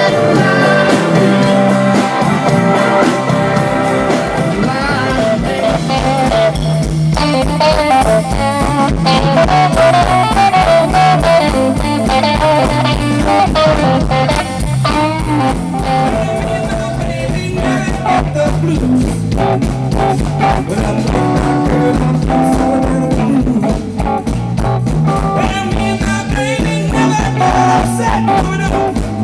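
Live blues band playing: guitar lines with string bends over bass and a steady drum beat.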